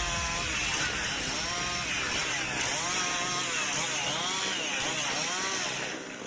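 Chainsaw cutting wood, its engine note rising and falling over and over as the chain bites and frees, dropping away briefly near the end.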